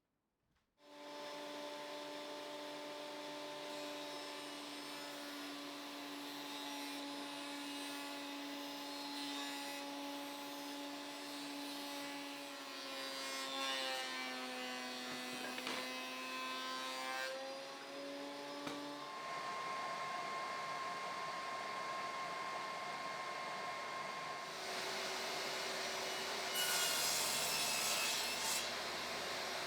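Electric woodworking power tool cutting wood. Its motor runs with a steady whine whose pitch sags under load in the middle, and later a different steady tone comes in, with a harsher, hissier cutting noise near the end.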